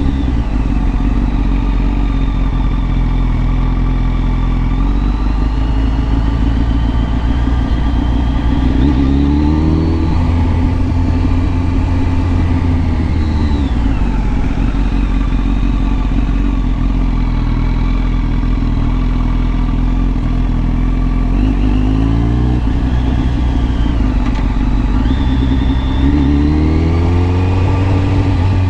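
Kawasaki ZX-10R's inline-four engine running while riding. The revs climb in short rising sweeps several times, and fall away once in between.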